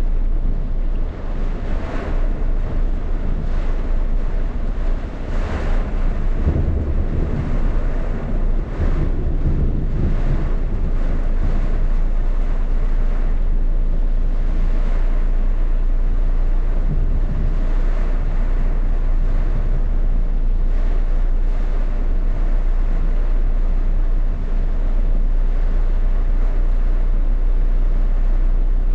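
Rainstorm: a steady rush of heavy rain and wind, with gusts rumbling on the microphone. It comes in uneven surges for the first ten seconds or so, then settles into an even roar.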